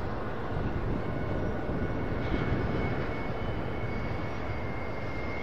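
Double-stack intermodal freight train rolling past as a steady rumble, with a thin high steady whine over it.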